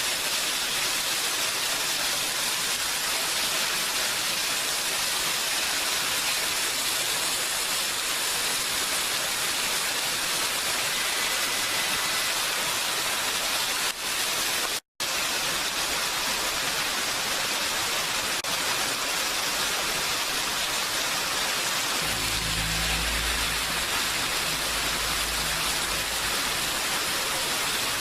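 Steady, heavy rainfall, a dense even hiss, with a split-second gap about halfway through and a low rumble for a few seconds near the end.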